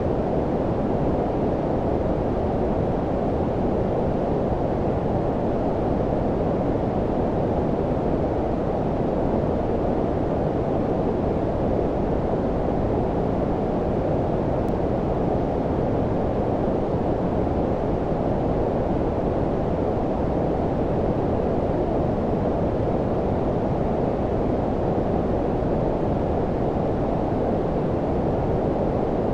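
Steady low-pitched noise: white noise with its highs filtered away, so it sounds like a deep, even rumble with no change or pattern.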